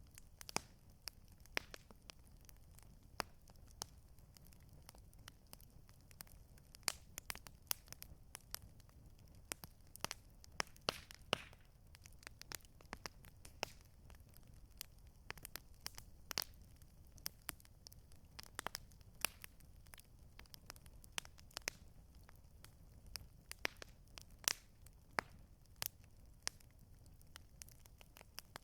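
Campfire crackling: a steady scatter of irregular sharp pops and snaps from burning wood, over a low steady rumble.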